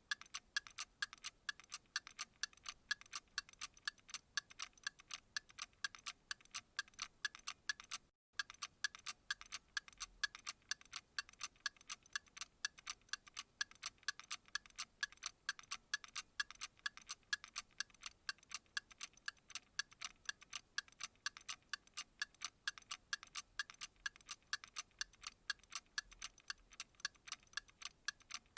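Steady, evenly spaced ticking, several ticks a second, with a momentary break in the sound about eight seconds in.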